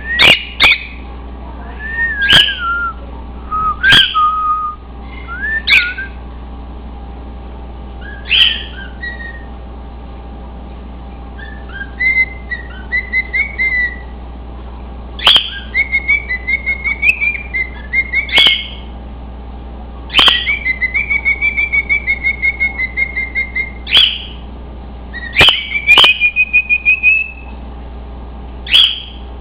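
Cockatiel whistle-singing: sharp, loud chirps, each followed by warbling whistled phrases and quick trills, repeated in short bouts with a pause of a few seconds about a third of the way in.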